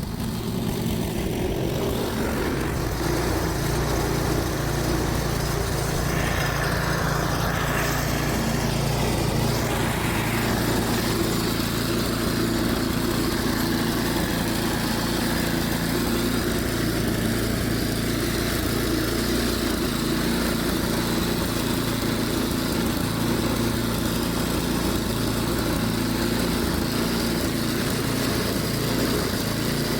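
Gasoline snowblower's small engine running steadily.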